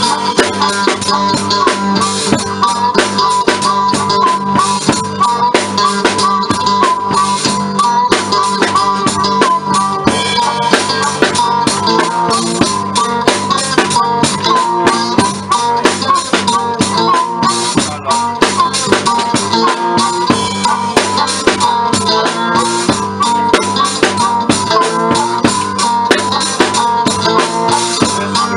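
Live blues band playing an instrumental passage, a drum kit keeping a steady beat under a wavering lead melody.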